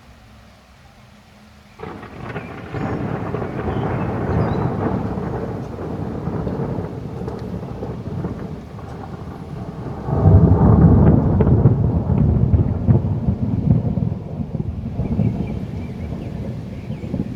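Thunder: a sudden clap about two seconds in rolls into a long rumble, then a louder peal about ten seconds in rolls on and slowly eases off.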